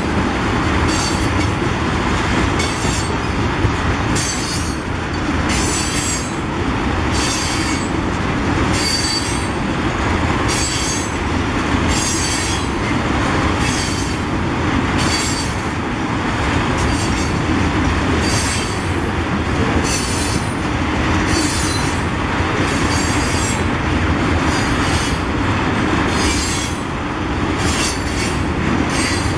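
Freight train of tank cars rolling past at steady speed: a continuous rumble and rattle of wheels on rail, with short high-pitched squeals coming in about once a second.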